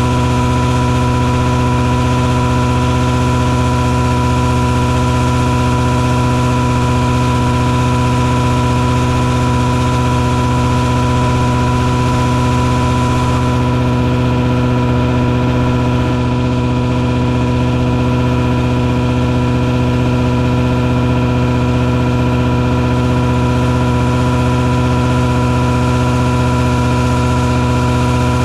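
Engine running loud and steady at a constant speed, with a steady high whine over it.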